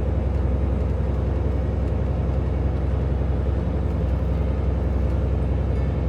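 Peterbilt semi-truck's diesel engine running steadily under way, with tyre and road noise, heard from inside the cab.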